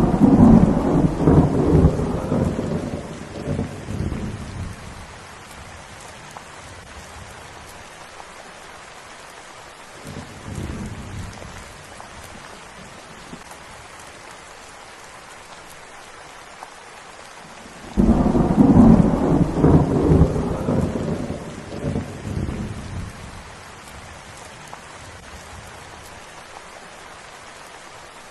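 Steady rain falling, with rolls of thunder. A loud rumble at the start fades away over about five seconds, a faint one comes about ten seconds in, and another loud rumble starts about eighteen seconds in and dies away over the next five.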